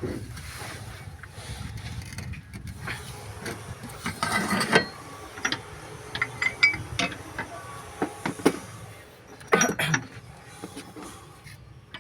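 Hand tools clinking and ratcheting on metal engine parts: scattered clicks and knocks, a brief scraping burst about four seconds in, and a cluster of louder knocks near the end.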